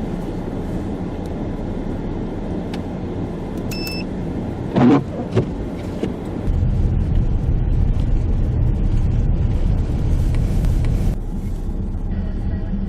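Steady low rumble of a vehicle driving through a blizzard, with road and wind noise, which gets louder for several seconds past the middle. A short beep comes about four seconds in, and a brief loud sound about a second later.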